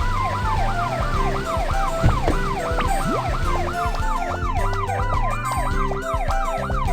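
Cartoon emergency-vehicle siren wailing in quick rising-and-falling sweeps, about two and a half a second, over background music.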